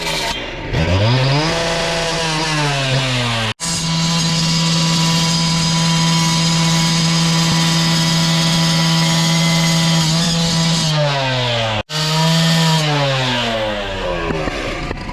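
Gas-powered two-stroke concrete cut-off saw running, its engine dropping toward idle and revving back up, held at full speed for several seconds, then easing off and revving again. The sound breaks off abruptly twice.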